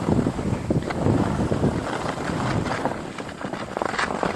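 Wind buffeting the camera microphone on a ski slope, a rough rushing noise with scattered scratchy crackles, slowly easing off toward the end.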